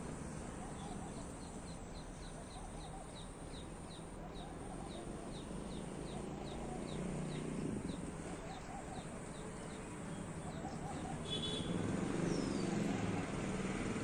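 A small bird repeating a short, high, falling note about two to three times a second for roughly ten seconds, over a steady low hum of traffic. The notes stop about three-quarters of the way through, followed by a brief rattle and one falling whistle.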